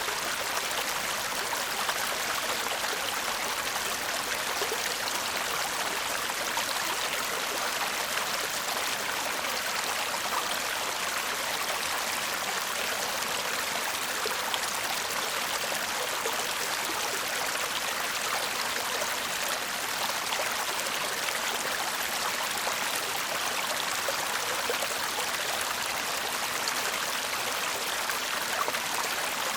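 A shallow stream babbling steadily over stones, a continuous even rush of running water with fine trickling detail and no changes in level.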